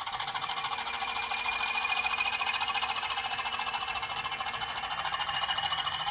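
Three-rail O gauge toy train running along its track: a fast, even rattle with an electric motor whine that slowly rises in pitch as it picks up speed.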